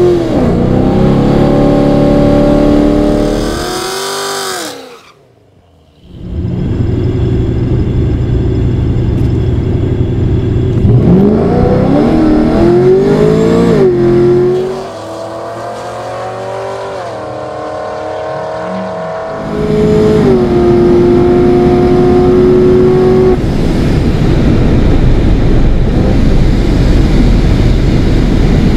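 Supercharged Pontiac G8 V8 revving and accelerating hard at the drag strip, its pitch climbing and stepping at gear changes. There is a brief cut to near silence about five seconds in.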